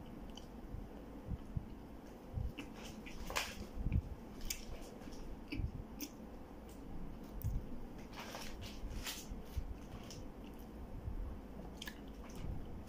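Chewing and mouth sounds of a man eating a soft bun with ube filling, with scattered short clicks and smacks.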